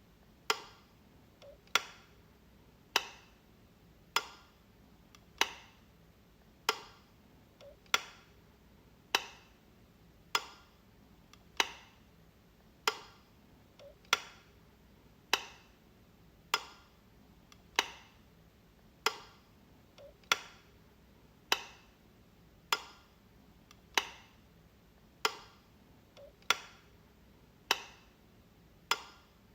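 Light switch flicked over and over: a sharp click about every 1.2 seconds, some with a faint softer click just before.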